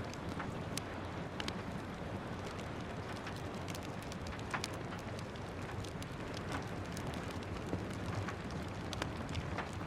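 Steady rain with the irregular sharp crackles and pops of a wood fire in a fireplace.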